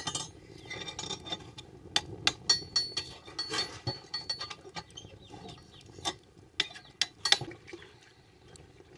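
Cooking pots and utensils clinking and knocking: a string of irregular sharp clinks, a few ringing briefly, thinning out near the end.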